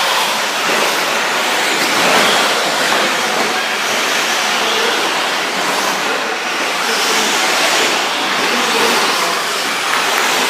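Several electric 1/10-scale 4WD short course RC trucks racing on an indoor dirt track, giving a steady, rushing mix of motor and drivetrain noise and tyres on dirt.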